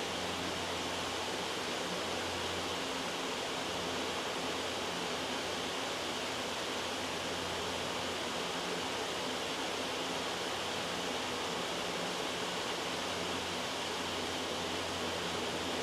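Loud, steady white-noise hiss, even throughout with no changes, played as a study background.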